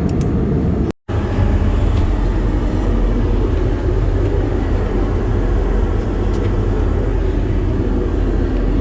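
Jet airliner cabin noise: a loud, steady rumble of engines and airflow, cutting out for an instant about a second in.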